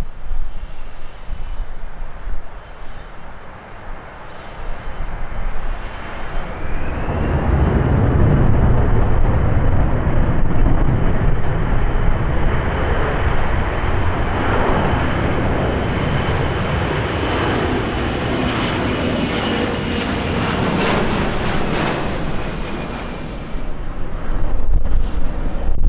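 Boeing C-17A Globemaster III's four turbofan engines passing close. A deep rumble swells about a quarter of the way in, with a high whine over it that slowly drops in pitch as the jet goes by, then fades near the end. Wind buffets the microphone at the start and the end.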